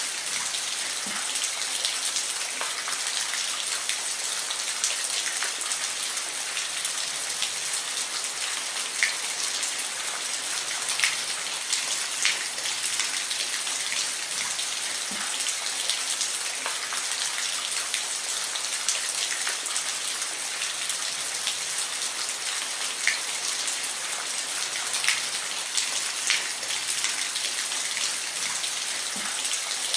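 Steady rain falling, a dense even hiss with scattered individual drops ticking sharply on a surface.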